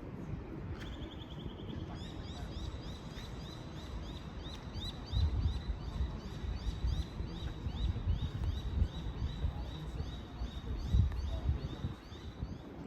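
A bird calling over and over, a steady run of short, high, rising chirps several times a second, with wind rumbling on the microphone.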